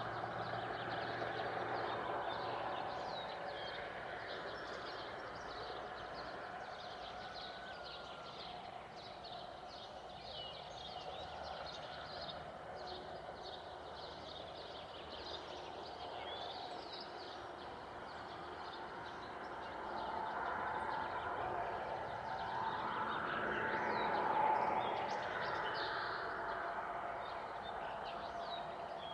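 Small birds chirping continuously in short high calls, over a broad rushing swell of a passing vehicle that builds from about 20 seconds in, is loudest near 24 seconds, then fades.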